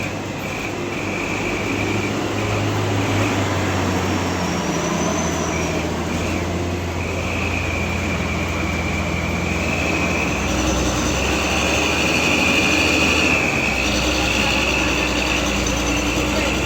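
Heavily loaded truck's diesel engine labouring up a steep grade, its low drone stepping in pitch several times. A high squealing whine runs over it and swells to its loudest in the second half.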